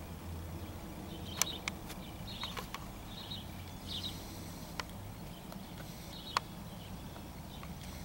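Scattered sharp clicks and taps, a few seconds apart, with short faint high chirps of birds between them.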